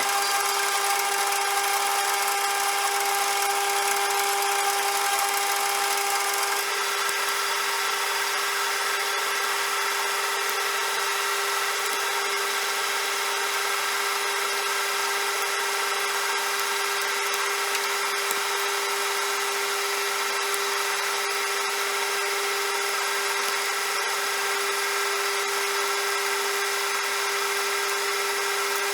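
CJM360 benchtop metal lathe running, a steady mechanical whine with a hiss, starting suddenly. One of its tones drops out about six seconds in, and the rest runs on unchanged.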